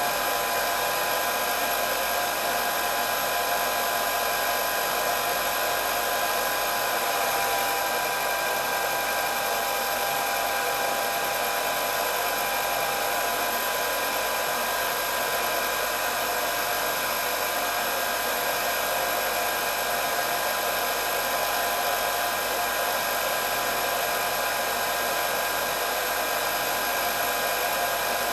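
Hair dryer running continuously: a steady whirring blow of air with a constant high motor whine, no change in speed.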